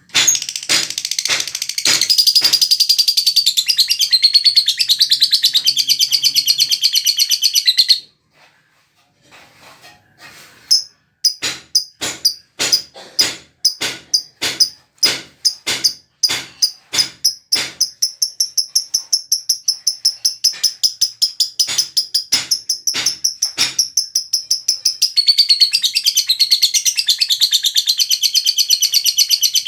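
Lovebird singing its long 'ngekek' chattering song: dense, high rapid chatter that stops about eight seconds in. It then starts again with separate quick chirps that speed up into a steady trill, breaking back into dense chatter near the end.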